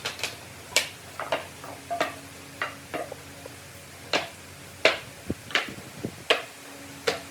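Pieces of scrap pallet wood being handled and set down, giving irregular sharp wooden knocks and clicks, about two a second.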